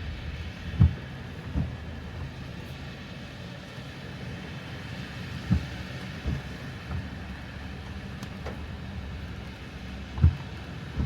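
Car driving, with a steady low rumble of engine and road noise. Pairs of low thumps, about three quarters of a second apart, come three times, as the wheels go over bumps or road joints.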